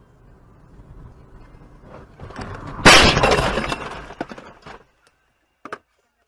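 Car collision: a sudden loud impact about three seconds in, followed by about two seconds of breaking and clattering that die away, then one short knock near the end.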